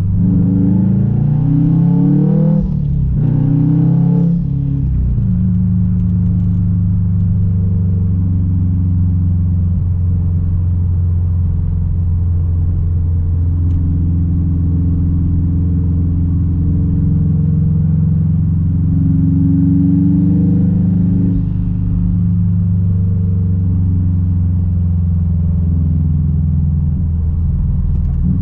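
Straight-piped 2006 Subaru WRX STI's turbocharged 2.5-litre flat-four exhaust pulling hard through two quick upshifts in the first few seconds. It then settles into a steady cruising drone, swelling slightly and easing off again about two-thirds of the way in.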